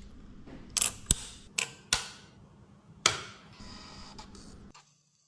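Sharp clicks and snaps, about five over three seconds, from tools and small parts being handled while a fibre-optic connector is fitted onto the cable end. The sound cuts off suddenly near the end.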